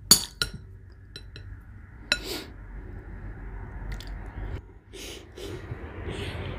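Eating utensil clinking and scraping against a dish while the last bites of chili are taken: a few sharp clinks, the loudest right at the start and about two seconds in.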